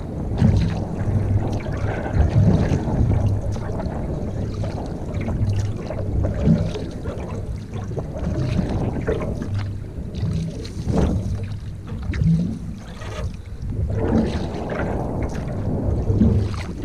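Wind rumbling steadily on the microphone from a canoe on the water, with scattered short knocks and splashes, likely from the paddle and hull.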